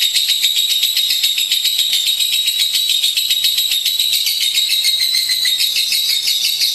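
Lovebird chattering song: a fast, unbroken high-pitched trill of rapid notes, with no pauses.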